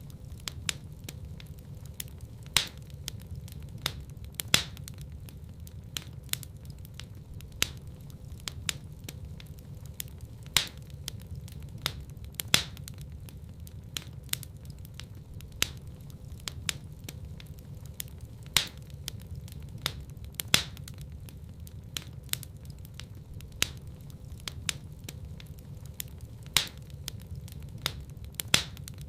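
Wood fire crackling in a fireplace, with sharp pops and snaps scattered throughout over a steady low rumble. A few louder pops stand out every couple of seconds.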